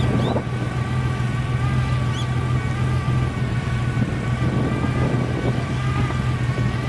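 An old car's engine running steadily at idle, its pitch holding level with no revving.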